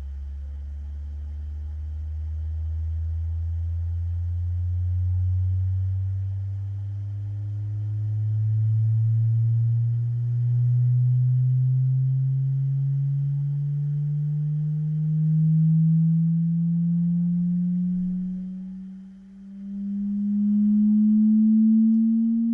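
3D-printed loudspeaker playing a slow sine sweep test: a single pure tone gliding steadily upward from a deep hum into the low-middle range, with faint overtones above it. Its loudness swells and sags as the pitch climbs and drops out sharply for a moment about three quarters of the way through.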